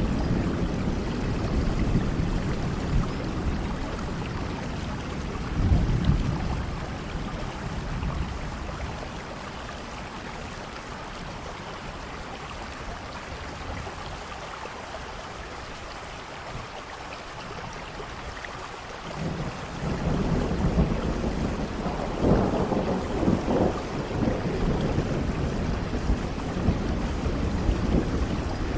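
Steady rainfall with rolling thunder. The rumble fades out after the first several seconds and builds again about two-thirds of the way through, growing louder toward the end.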